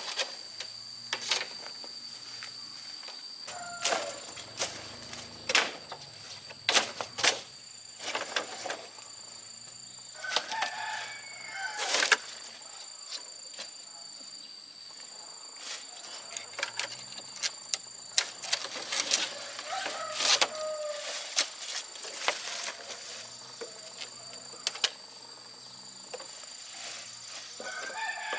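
Chickens calling now and then over a steady high insect drone, with many scattered sharp knocks and clicks.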